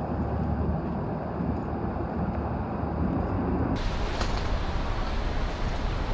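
Steady low rumble of vehicle or engine noise mixed with wind on the microphone, switching abruptly about two-thirds of the way through to a brighter, hissier background.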